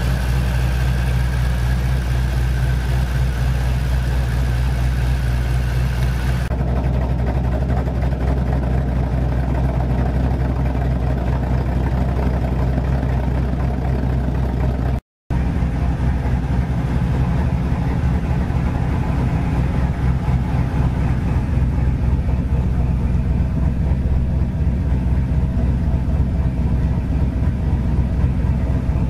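Ford Mustang GT's 4.6-litre three-valve V8, fitted with a Whipple 2.3 supercharger, long-tube headers and Ford Performance camshafts, idling steadily and loud. The sound turns duller about a quarter of the way in and drops out for a moment about halfway.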